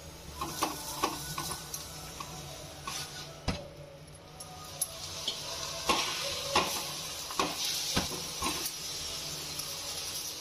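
Ghee sizzling on a bathua paratha frying on a tawa, the hiss growing louder about halfway through. Sharp taps and scrapes of a utensil against the pan and the steel plate come throughout.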